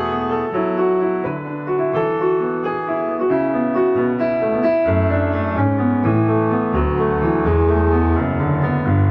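Background piano music: held notes with a slow melody over low bass notes.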